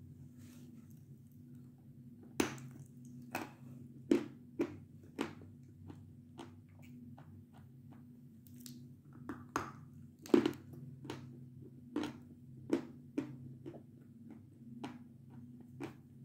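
Close-up chewing of a mouthful of crunchy Belgorod chalk: a string of sharp, irregular crunches, a few of them much louder than the rest.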